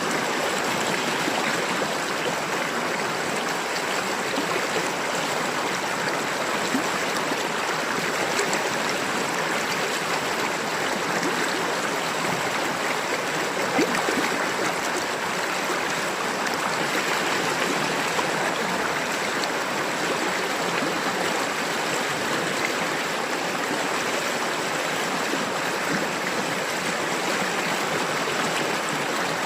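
A river's water running and babbling over stones in a steady, even rush.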